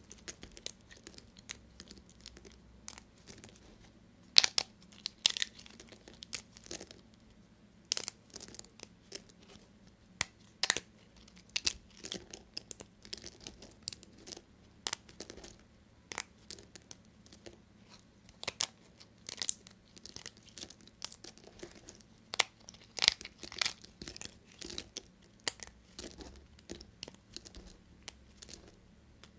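A knife cutting through bars of soap: a long run of crisp, irregular crunching and cracking strokes, several a second.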